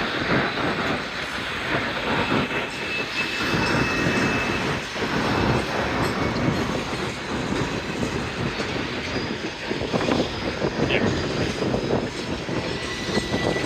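Freight train cars rolling past on steel rails, the wheels clattering over the track with a faint high wheel squeal drawn out over several seconds.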